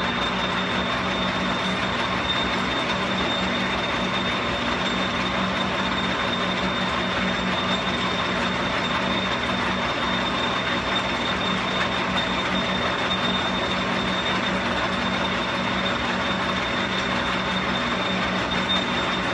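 Metal lathe running steadily while its cutter takes a turning pass along an axle, a constant machine noise with a low hum and a steady high whine.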